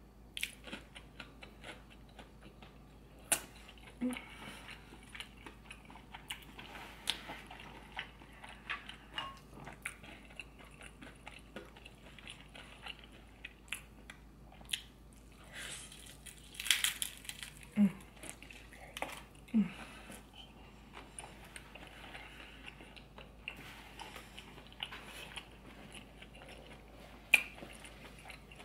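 A person chewing and biting into seafood, with frequent short crunches and wet clicks of the mouth.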